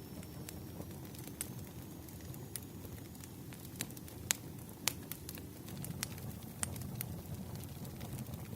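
Wood fire crackling: a low steady rush of burning logs with irregular sharp pops and snaps, two of them louder about four and five seconds in.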